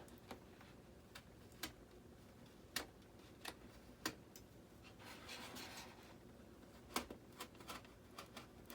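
A blade cutting through a foam model-jet body: irregular sharp clicks and creaks, with a short scratchy rasp about five seconds in.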